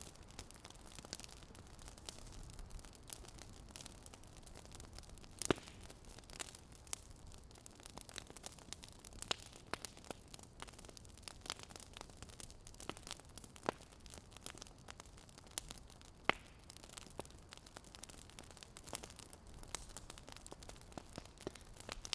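Fire crackling: irregular sharp pops and snaps, a couple of them louder, over a soft steady hiss.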